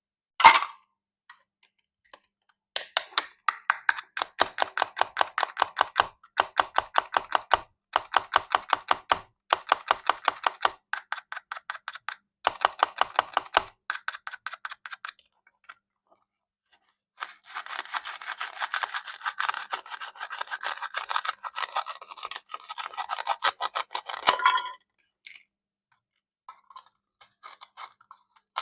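Plastic toy fruit being cut with a plastic knife: rapid, even ticking strokes in bursts, with a denser, rougher scraping run in the second half. A sharp knock about half a second in is the loudest sound.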